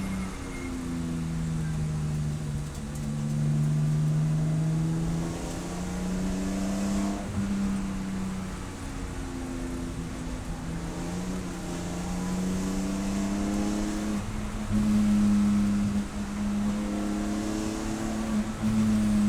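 Race car engine running hard. Its pitch climbs steadily in long pulls and drops sharply about three times.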